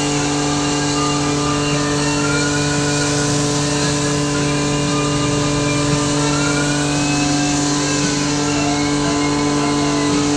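A steady motor hum with an even hiss over it, unchanging throughout.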